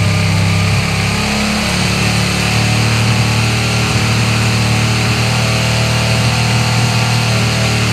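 Carbureted 2002 Suzuki SV N V-twin engine running at a steady, held engine speed, its pitch shifting slightly about a second and a half in.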